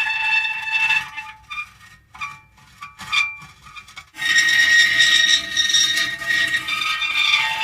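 Metal creaking: drawn-out, high squealing tones, breaking into short, uneven squeaks in the middle before a long squeal resumes about four seconds in.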